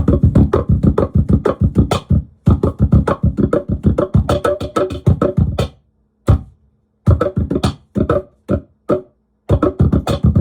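Laptop cajon played in fast runs of hand strikes through a Digitech BP355 multi-effects pedal, each strike coming out as a pitched, effected tone. The runs break off briefly about two seconds in and again around six seconds.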